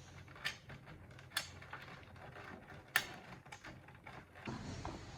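Scattered small clicks and taps of hand work on metal and plastic parts, with three sharper clicks about half a second, a second and a half, and three seconds in.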